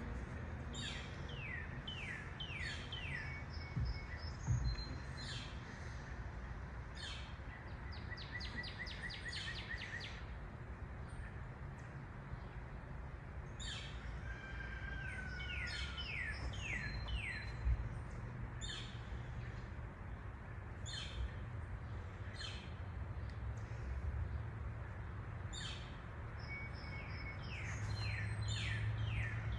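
Songbirds singing: series of quick descending whistled notes and fast runs of repeated chirps come every few seconds over a steady low background rumble. A couple of soft low thumps, the louder about four seconds in.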